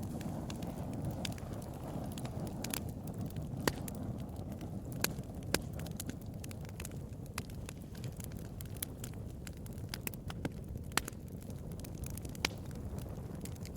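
Bonfire burning: a steady low rush of flames with sharp, irregular crackles and pops, a few of them louder snaps.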